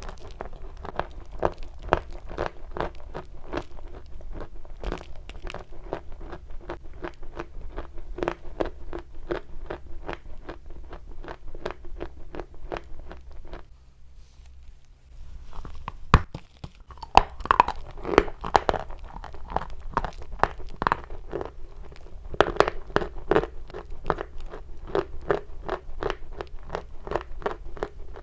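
Chalk being bitten and chewed close up: a dense run of crisp crunches, pausing for about two seconds near the middle, then resuming with a few louder snaps.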